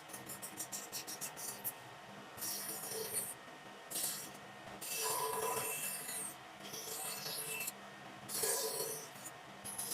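A hand tool scraping and rubbing on wood in repeated separate strokes, each lasting about half a second to a second, with brief pauses between. It opens with a quick run of small ticks.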